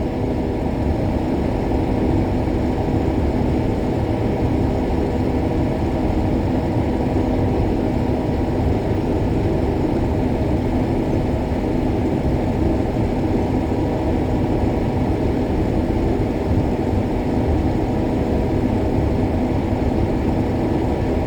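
Combine harvester running steadily while harvesting soybeans: a constant, unchanging machine drone with a steady low hum.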